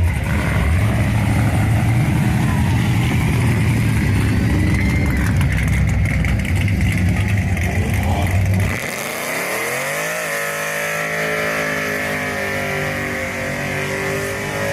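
Loud, deep rumble of a car engine and exhaust, typical of a hot rod cruising past. About nine seconds in it cuts off suddenly, and a sustained pitched sound slides upward and then holds steady.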